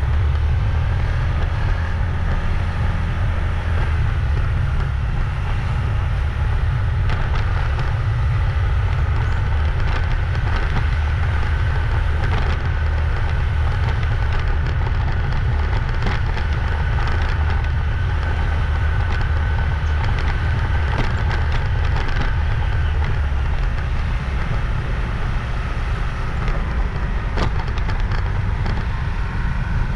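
Motorbike riding along a road: a steady low rumble with a faint thin whine above it and scattered light clicks and rattles.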